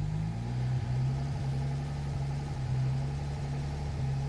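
Citroën 15-Six straight-six engine idling steadily, driving the hydraulic pump that raises the rear hydropneumatic suspension as the height control is set back to the middle.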